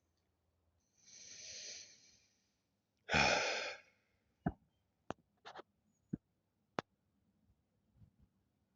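A person breathes in, then lets out a long sigh about three seconds in. A handful of short, sharp clicks follow over the next few seconds.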